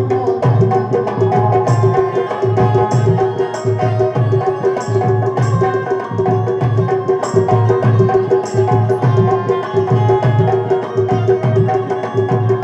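Instrumental Rai folk music: low drums keep a steady beat under a melody over one held drone note, with short bright high hits through the first part.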